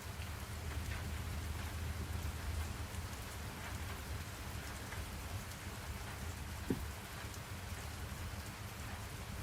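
Steady rain falling, with a low rumble underneath and a single brief low knock about two-thirds of the way in.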